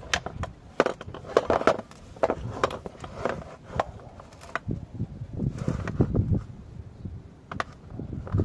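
Irregular clicks, clinks and knocks of hard parts being handled and set down, with a stretch of rustling and handling noise in the middle.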